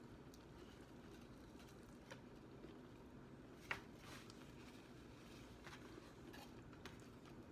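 Faint chewing of fried chicken over a quiet room hiss, with a few small sharp clicks, the clearest about three and a half seconds in.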